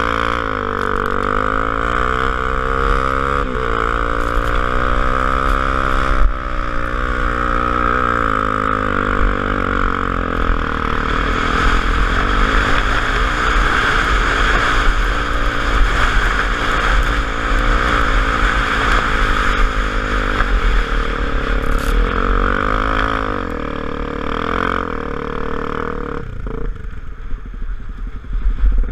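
Honda XR250 Tornado motorcycle's single-cylinder four-stroke engine running under way, its revs rising and falling again and again with throttle and gear changes, over a steady rushing noise. The engine note drops away near the end.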